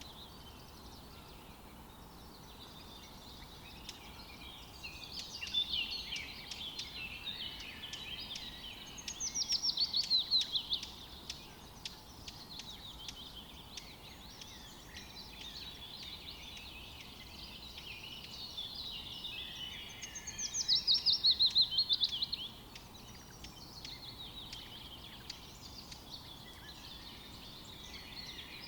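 Birdsong: small birds chirping steadily, with a loud, rapid, downward-sliding trill twice, about ten seconds apart.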